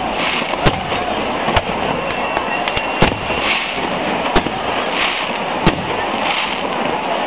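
Fireworks going off: sharp bangs every second or so, the loudest about three, four and a half and five and a half seconds in, over a steady rushing background. A thin whistle rises out of it just before the bang at three seconds.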